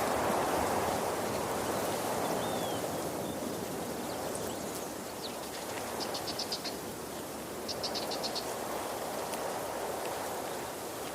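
Waterfall: a steady rush of falling water. A short, high, rapidly pulsing trill cuts through it twice in the second half.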